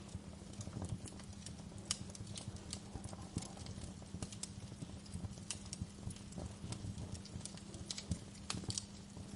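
Wood fire in a fireplace crackling, with irregular sharp pops, a few louder ones about two seconds in and near the end, over a steady low rumble and a soft hiss of gentle rain.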